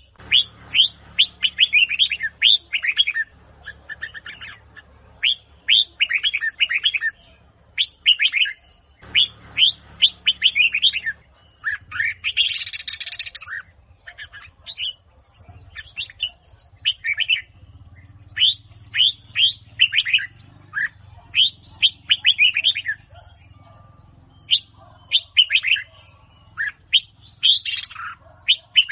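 Red-whiskered bulbul singing: quick runs of high chirping, whistled notes, phrase after phrase with short pauses between.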